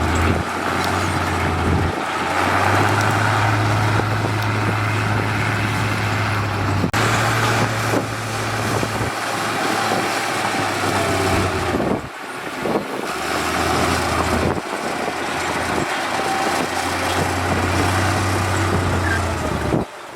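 Heavy diesel construction machinery running, a steady low engine hum under a rumble of noise. The sound changes abruptly several times, as if between different machines or shots.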